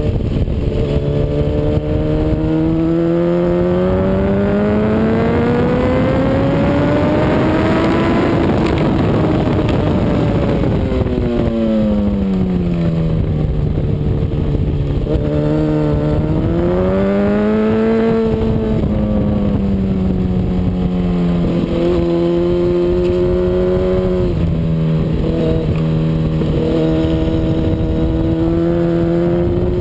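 Honda CBR RR sportbike's inline-four engine at track pace, with a rushing noise throughout. The pitch climbs steadily for about eight seconds under hard acceleration, then falls away as the bike slows. It picks up again briefly, then runs at a fairly steady pitch with a few small dips.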